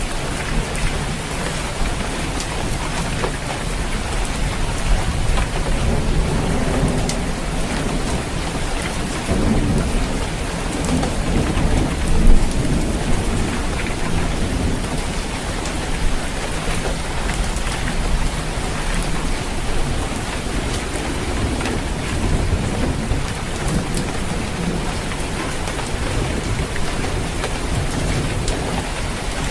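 Steady rain falling on a roof, with deep low rumbles swelling and fading beneath it, loudest about twelve seconds in.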